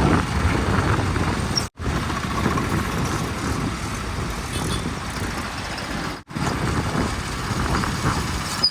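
Diesel engines of heavy vehicles running steadily with a low rumble. The sound drops out to silence twice, briefly.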